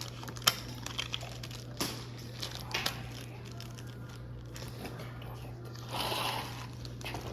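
Plastic parts of a model airliner kit being handled and fitted together: scattered sharp clicks and taps, the loudest about half a second in, with a brief plastic rustle about six seconds in.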